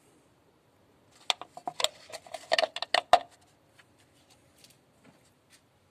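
A quick run of clicks and rattles from small hard parts being handled, lasting about two seconds from a second in, then a few faint ticks.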